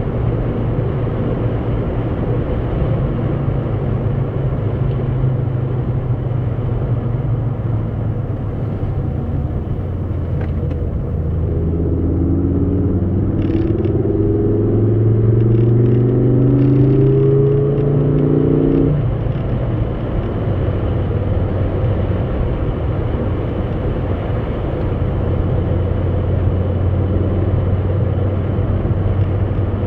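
Steady low drone of a vehicle engine running. A second pitched engine note comes in about a third of the way through, rises slowly, then cuts off a little past halfway.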